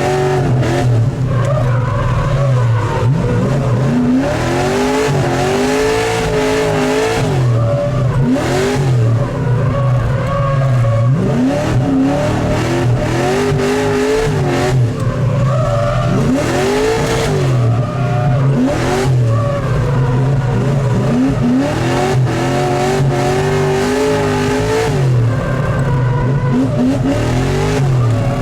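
LS3-swapped Mazda Miata's 6.2-litre V8 revving hard, the engine note repeatedly rising and falling every couple of seconds as the car is drifted, with tyre squeal at times.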